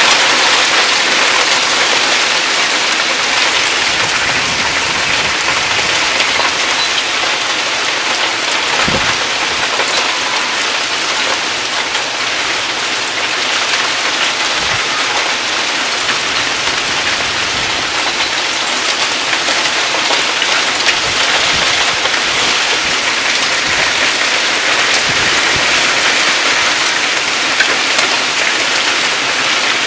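Heavy rain pouring down steadily, splashing on the lawn, puddles and porch steps in an even, dense hiss.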